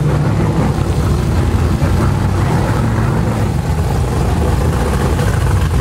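Car engine running steadily at low revs, with a constant low rumble and no revving.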